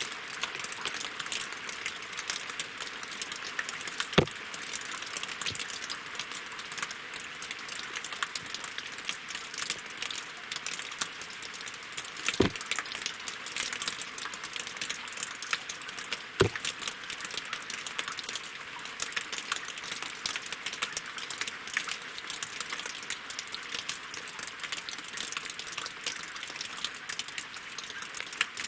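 Winter rain falling steadily on lake water and wooden logs: a constant hiss of dense, fine drop ticks. Three louder single drop strikes land about 4, 12 and 16 seconds in.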